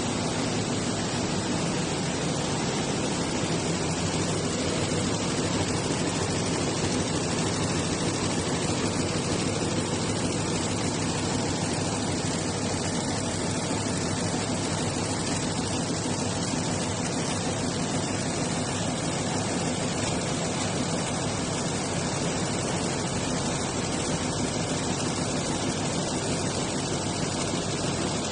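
Computerized jacquard needle loom for ribbon weaving, running with a steady, dense, rapid clatter.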